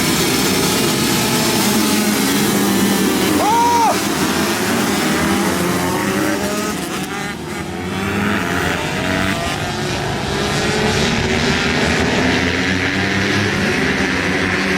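A pack of pit bike engines revving hard at once, many overlapping pitches rising and falling as the mini bikes race past.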